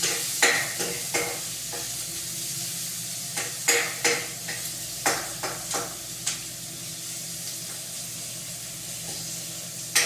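Food sizzling in a frying pan while a cooking utensil stirs it, giving sharp, irregular scrapes and knocks against the pan, most of them in the first seven seconds. A faint steady low hum runs underneath.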